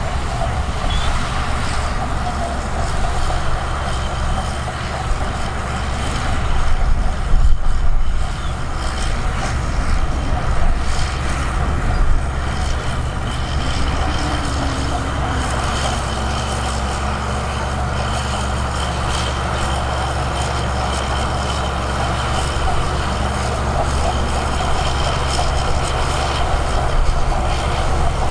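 Heavy diesel earthmoving machinery running steadily under load, with a deep engine sound and a few louder surges, the biggest a quarter of the way in.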